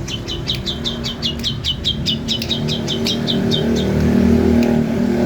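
Female long-tailed shrike calling a rapid run of short, slightly falling notes, about six a second, which stops about four seconds in. A low hum grows louder near the end.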